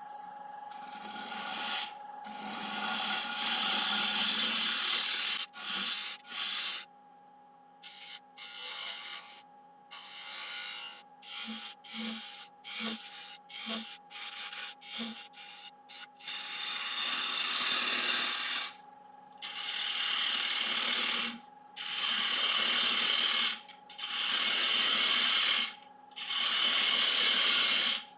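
A turning tool shaving Iroko wood on a spinning lathe, cutting a bead into a platter's rim, over the steady hum of the lathe. The cutting comes in many short touches through the middle, then in longer passes of about two seconds each near the end.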